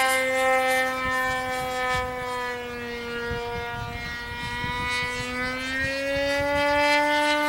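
RC model airplane's engine running in flight, a steady buzzing note. Near the middle it grows quieter and drops in pitch, then comes back louder and higher toward the end as the plane flies away and returns. Wind rumble on the microphone underneath.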